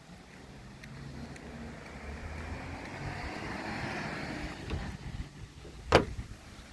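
Garbage truck engine running as the truck passes, growing louder over the first four seconds and then fading, followed by a single sharp knock about six seconds in.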